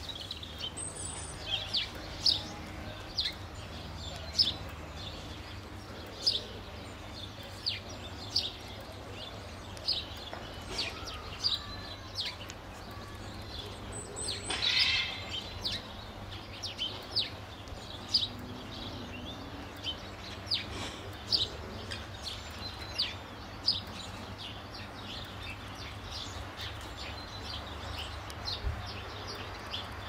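Small birds chirping: short, high chirps about one or two a second, with a longer burst of song about halfway through, over a steady low rumble.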